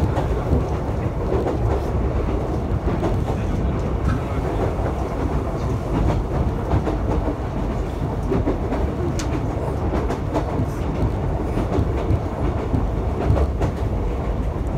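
Ise Railway diesel train running at speed, heard from inside the carriage: a steady low rumble of wheels on the rails, with an occasional faint click from the track.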